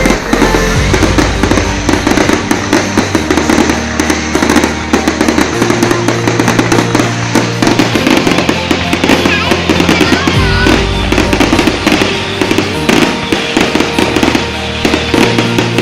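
Fireworks crackling and bursting in a dense, continuous run, heard over backing music with a steady bass line that shifts note every few seconds.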